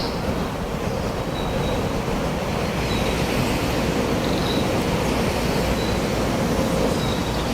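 Wind blowing steadily with a low rumble, with a few faint short high bird notes scattered through it.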